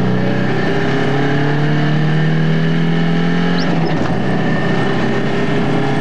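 Alfa Romeo Alfasud's flat-four engine heard from inside the cabin, its revs climbing steadily under acceleration, then falling back about four seconds in and running on at a steady pitch.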